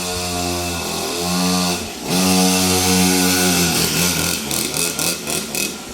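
Small dirt bike engine running and being revved: its pitch climbs and falls once, then swings up louder and holds before dropping away. The sound breaks up into uneven crackling near the end.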